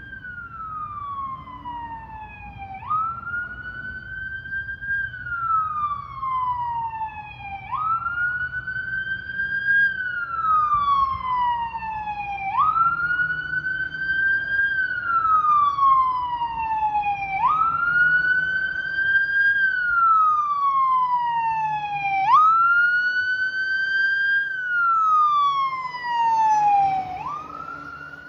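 Fire engine's siren sounding a slow wail: each cycle rises quickly, then falls slowly, about once every five seconds, over a low rumble of the truck. It grows louder through the first half and fades near the end.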